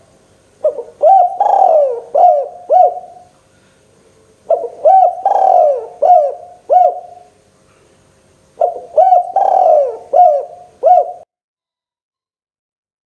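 Spotted dove (tekukur) cooing: three phrases of about five coo notes each, a couple of seconds apart, each with a longer falling note in the middle. The calls stop abruptly near the end.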